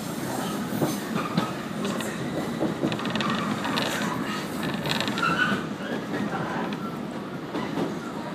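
Running noise of a JR 115 series electric train heard from inside the passenger car: a steady rumble of wheels on the rails with a few sharp clicks. Brief high-pitched wheel squeals come in around the middle.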